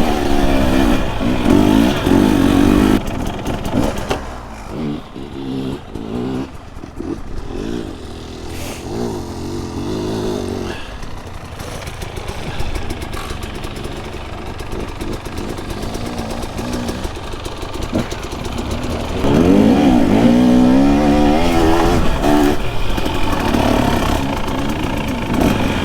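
Dirt bike engine revving up and down as the bike rides a trail, the pitch rising and falling with the throttle. It is louder for the first few seconds and again from about two-thirds of the way through, quieter in between.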